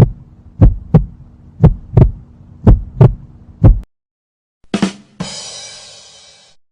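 Heartbeat sound effect: paired low thumps about once a second over a steady hum, stopping about four seconds in. Then comes a short knock, followed by a hissing sound that fades away.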